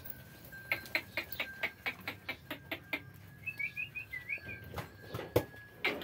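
A small bird chirps a quick run of short rising notes around the middle, over rapid, even clicking and a faint steady high whine. One sharp knock comes near the end.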